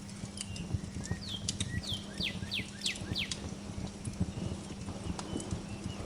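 Fireplace crackling with irregular pops and snaps, over a low steady hum. A bird sings a quick run of about six descending whistled notes between about one and three and a half seconds in, with fainter chirps near the end.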